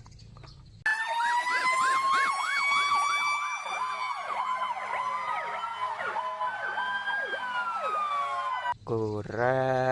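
Electronic fire-engine siren: a fast rising-and-falling whoop about twice a second layered over a long tone that slowly rises and then falls. It starts about a second in and stops just before the end.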